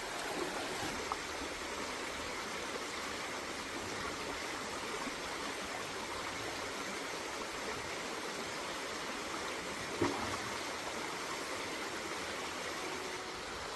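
Steady rushing noise, like running water, with one short knock about ten seconds in.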